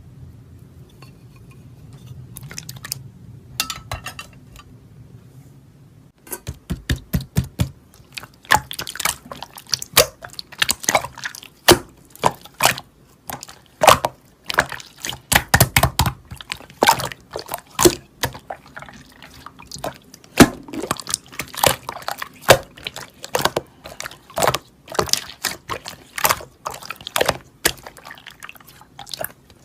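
Repeated wet clicks and drips in quick, irregular bursts, starting about six seconds in after a low steady hum.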